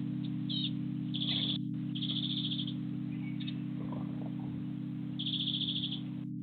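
Small garden bird calling: a few short chirps and three rapid, buzzy trills of under a second each, the last near the end. A steady low hum underlies it throughout.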